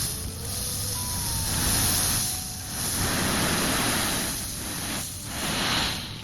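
A truck's engine running, under a hiss that swells and fades every couple of seconds.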